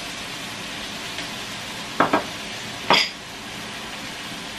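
Ground pork and green peas sizzling in a wok on a gas hob, a steady frying hiss. Two short clinks of dishes about two and three seconds in.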